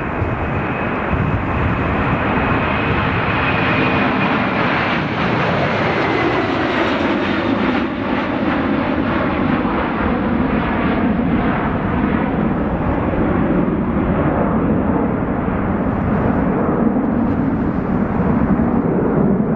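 Airliner engines running loud as the aircraft passes close by. A high whine dips in pitch about five to seven seconds in, and then a steady, rushing engine noise holds.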